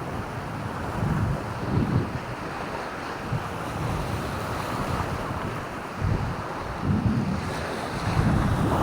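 Wind buffeting the microphone in low gusts, over a steady wash of surf.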